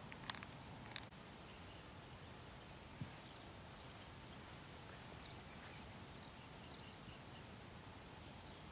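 A bird repeating one short, high chirp that sweeps downward, about every three-quarters of a second, around a dozen times, over a faint steady hiss. Two brief clicks sound in the first second.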